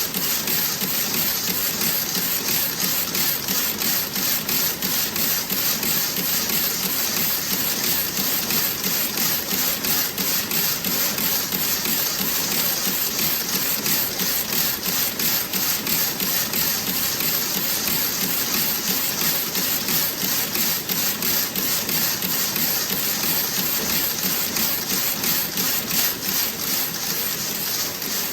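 Toe-sock knitting machine running, its mechanism clicking in a fast, even rhythm of about three strokes a second over a constant hiss.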